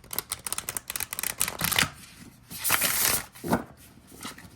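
A deck of matte-cardstock tarot cards being shuffled: a fast run of flicking card edges for about two seconds, then two short rustles about half a second apart.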